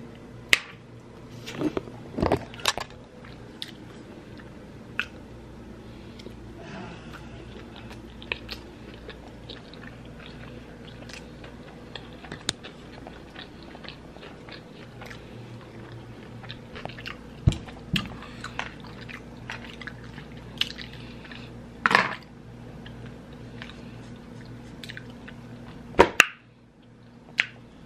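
A person chewing a mouthful of sushi roll close to the microphone: wet mouth clicks and smacks, with a few louder ones scattered through. A steady low hum runs underneath.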